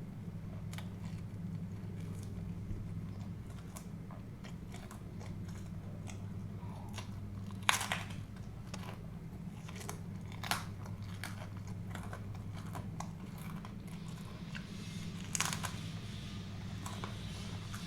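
Close-miked chewing and biting of food, with scattered crunches; the two loudest bites come about 8 seconds and 15 seconds in. A steady low hum runs underneath.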